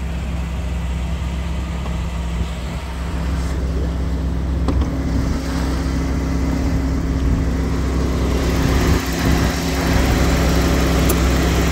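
1987 Chevrolet Corvette's 5.7-litre tuned-port-injection V8 idling steadily, with its electric radiator fan running, a fan wired by a previous owner to stay on permanently. The idle gets louder about eight seconds in, heard up close over the open engine bay.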